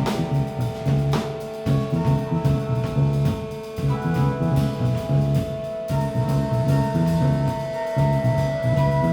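Live band playing an instrumental passage: a rhythmic bass line and drum kit under long held chords, with no vocals.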